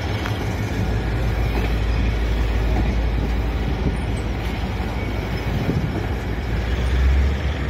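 Karachi Circular Railway passenger train at a station platform: a steady low rumble with general noise over it, swelling briefly about seven seconds in.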